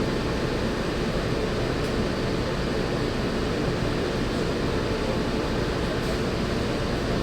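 Steady running noise inside a Walt Disney World monorail car travelling between stations: an even rush with a faint steady hum.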